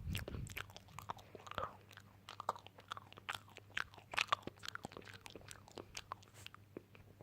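Close-miked crunchy chewing: many small, irregular crisp crunches and crackles.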